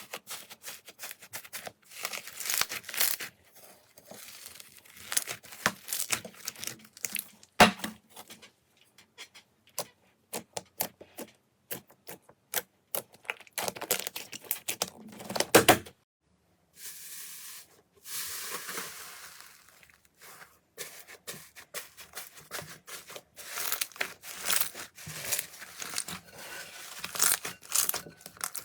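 Slime being squeezed, stretched and poked close to the microphone: a dense run of sticky crackles, pops and clicks. It breaks off in a brief silence about sixteen seconds in, then goes on.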